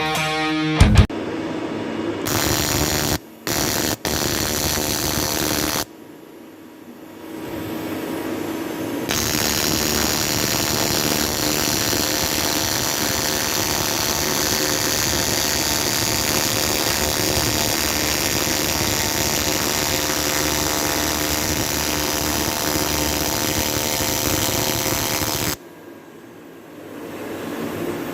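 TIG welding arc on aluminium, a steady noisy hum, struck in a few short bursts over the first six seconds, then held for about eighteen seconds before cutting off.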